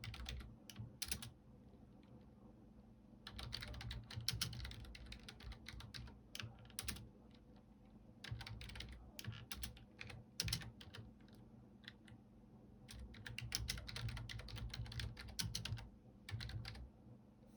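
Typing on a computer keyboard: runs of quick keystrokes a few seconds long, broken by short pauses.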